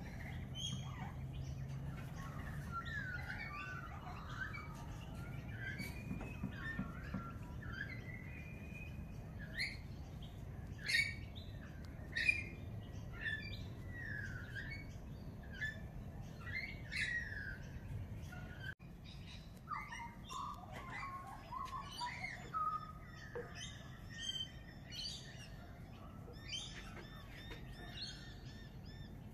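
Wild birds chirping and calling, many short rising and falling calls overlapping one another, over a low steady background rumble.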